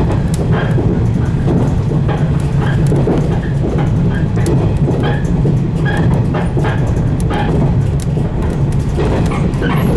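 115-series electric multiple unit running along the line, heard from the cab: a steady low rumble and hum of motors and wheels, with frequent irregular clicks and knocks from the wheels and track.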